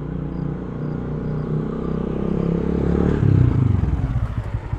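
Motorcycle engine running, growing louder, then about three seconds in its speed drops and it settles into a slower, pulsing idle.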